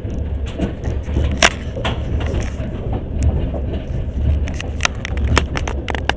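Moving train carriage heard from inside: a steady low rumble of the wheels on the rails, with sharp clicks and knocks from the carriage now and then, the loudest about a second and a half in and several more close together near the end.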